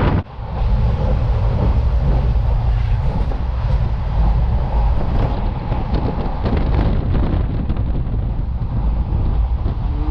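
Steady low rumble of a moving vehicle, with wind noise on the microphone. The sound drops out briefly at the very start, then runs on evenly.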